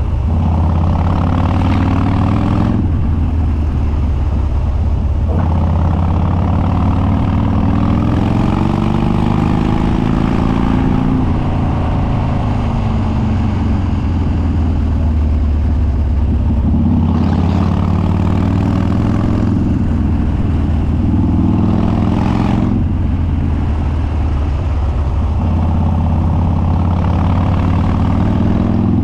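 2013 Harley-Davidson Dyna Street Bob's Twin Cam V-twin, running through a Stage 2 tune with unbaffled upswept dual exhaust, on the move. It revs up again and again, each climb in pitch broken off short as it shifts or rolls off the throttle, with a stretch of deceleration in the middle.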